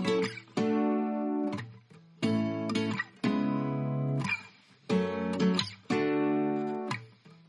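Background music: an instrumental passage of strummed guitar chords, a new chord struck every second or so and ringing out between strikes.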